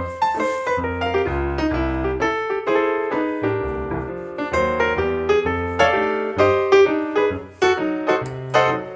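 Background piano music: a steady run of notes over a moving bass line.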